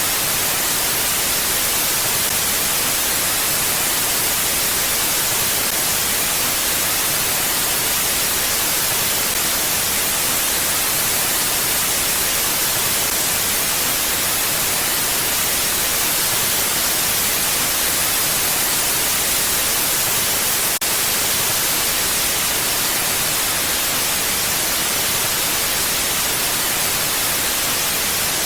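Steady mountain wind as an even, unbroken hiss with no gusts or lulls, strongest in the high end. There is a faint single tick about two-thirds of the way through.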